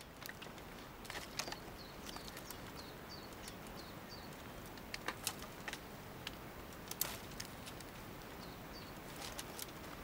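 Quiet outdoor ambience in which a small bird repeats short high chirps, mostly in the middle of the stretch, with a few sharp clicks and snaps; the loudest snap comes about seven seconds in.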